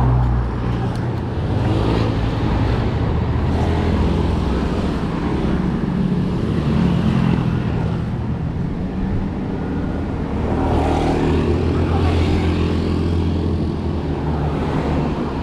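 Road traffic: motor vehicle engines running close by, the sound swelling and fading as vehicles pass.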